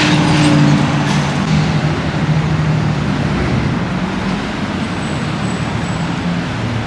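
Truck engine running with a low hum that is strongest in the first second or so and then fades as it moves off, over steady street traffic noise.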